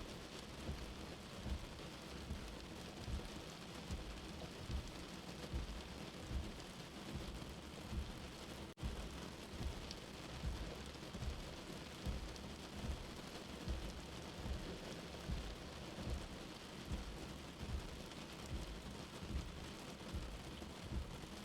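Steady rain heard from indoors, with a soft heartbeat thumping underneath about every 0.8 seconds. The sound drops out for a split second about nine seconds in.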